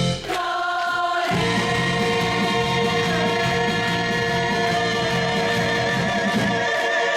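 Several singers holding the song's final chord together over a backing track, a long sustained note that wavers in the second half before cutting off.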